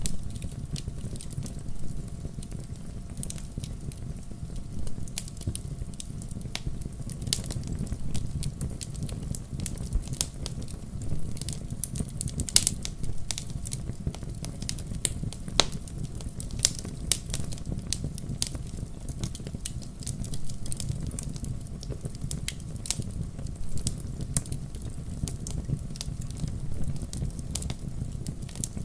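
Wood fire crackling in a fireplace: frequent small sharp pops over a steady low rumble, with a couple of louder pops near the middle.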